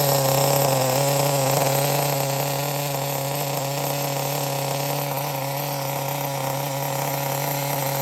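Small nitro RC engine on a CEN GST 7.7 running steadily during its break-in, on its third tank of fuel. Its level eases a little about two seconds in.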